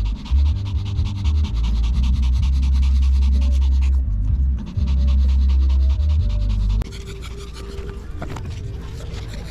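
A Maltese dog panting rapidly, with wind rumbling on the microphone until about seven seconds in.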